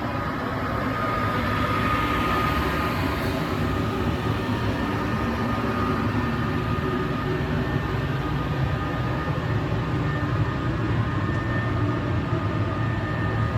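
Passenger train running on the rails: a steady rumble of wheels and carriage noise, with a thin high squeal coming and going over it.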